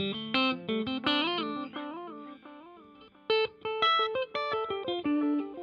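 Electric guitar played through a Donner Yellow Fall II delay pedal in its digital mode. A short lead phrase with two bent notes is followed by a run of quickly picked notes, and echo repeats of the notes trail behind the playing.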